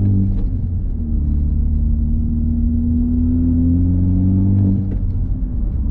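Honda Civic Type R's turbocharged four-cylinder engine with the muffler and resonator deleted, accelerating through a gear. The exhaust note dips just after the start, rises steadily in pitch for about four seconds, then falls about a second before the end.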